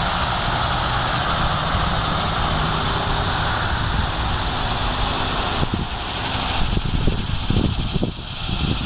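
Annual cicada giving its loud, steady buzzing call, which thins out about five and a half seconds in, followed by low irregular thumps.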